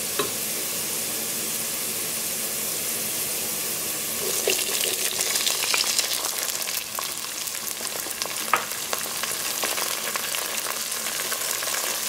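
Sliced onions sizzling in hot oil in a pot; about four seconds in, frozen peas are tipped in and the sizzle grows louder, with light clicks of a wooden spatula stirring.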